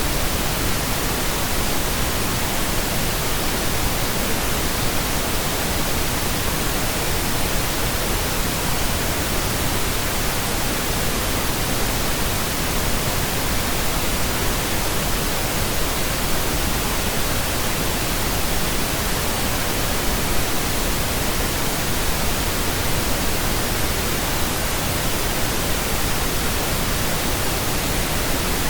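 Steady pink noise: an even, unchanging hiss spread across all pitches, with no tones or events in it.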